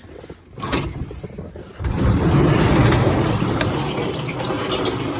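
Garage door opening: a click, then from about two seconds in a steady rumbling run with a low hum as the door travels up.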